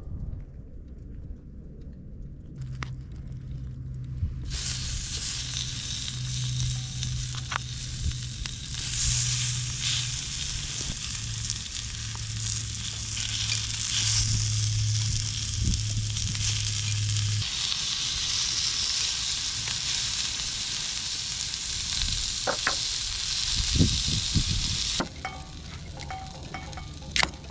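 Food sizzling over the heat, a dense steady hiss that starts suddenly a few seconds in and stops abruptly near the end. A low steady hum runs underneath for much of it.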